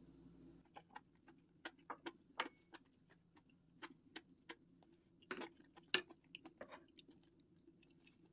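Faint chewing of stir-fried mushrooms: irregular soft mouth clicks and smacks, a few louder ones past the middle.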